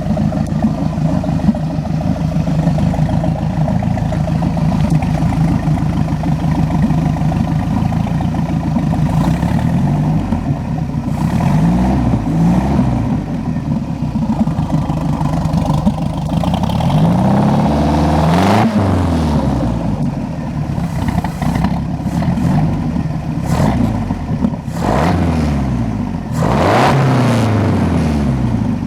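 Mercruiser 3.0 140 hp inline four-cylinder marine engine idling steadily, then revved up and back down several times from about nine seconds in, up to wide-open throttle without a miss.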